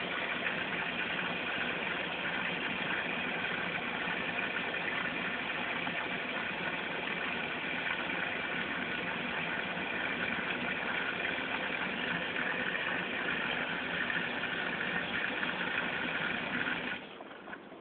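Hajdu Energomat Komfort washing machine running through its rinse, a steady even noise that cuts off suddenly near the end.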